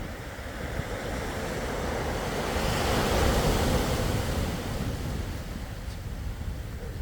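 Sea waves: the surf swells, breaks about three seconds in, then washes back and fades, over a steady low rumble of wind on the microphone.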